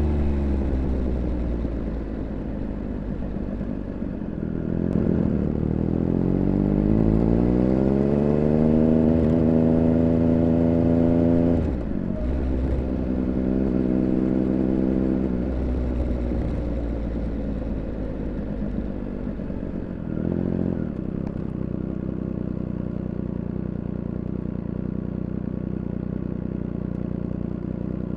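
Triumph Speed Triple 1200 RR's three-cylinder engine heard from on the bike: the note falls at first, then rises steadily under acceleration for several seconds before dropping suddenly, holds steady briefly, and settles to a lower, lighter run with one short blip of throttle.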